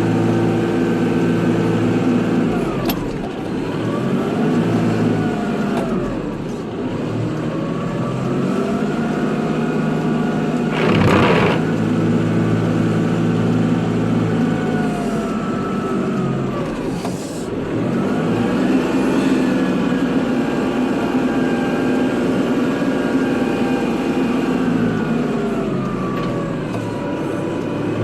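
Kubota tractor engine working under load, its speed repeatedly dropping and climbing again as the tractor pushes snow. A short rushing noise about eleven seconds in is the loudest moment.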